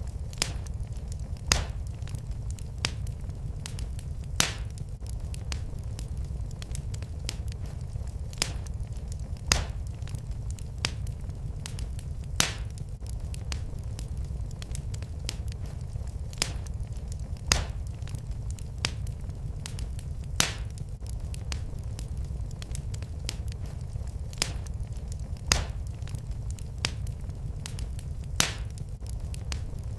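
Wood fire in a fireplace crackling, with sharp pops at irregular intervals, roughly one a second, over a steady low rumble.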